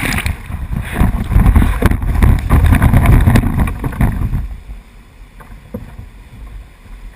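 Loud rushing whitewater and wind buffeting on the microphone as a raft runs a rapid, dropping away sharply about four and a half seconds in to a quieter water noise.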